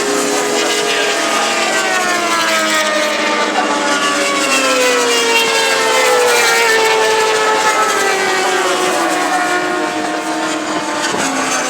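Several superbike racing motorcycles at speed, their engine notes overlapping and gliding down in pitch as they pass. The sound is loudest about halfway through.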